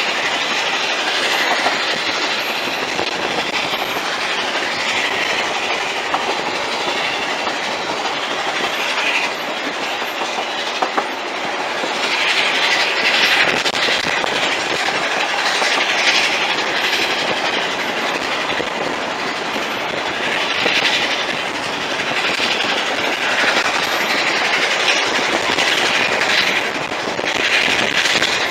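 Narrow-gauge train carriages running over the rails, heard from aboard: a steady rumble and clatter of wheels on track, with a sharper hiss swelling and fading every few seconds.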